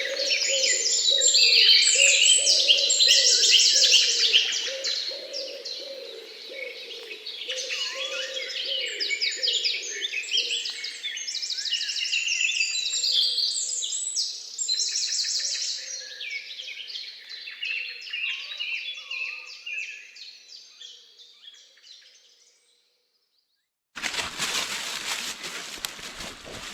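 Many small birds chirping and calling at once in a dense, rapid chorus that fades away, followed after a short silence by a steady rushing noise near the end.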